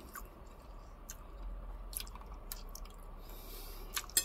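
Close-up wet chewing and mouth sounds of a person eating spaghetti with garlic bread: soft smacks and clicks, with a brief slurp of noodles near the end.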